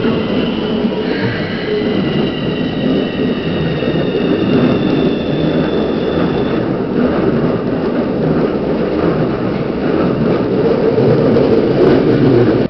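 Electric commuter train on the Keikyū line passing close over a level crossing: a loud, steady rumble of wheels and running gear, with a high whine of several tones slowly falling in pitch that fades out about halfway. The sound cuts off abruptly at the end.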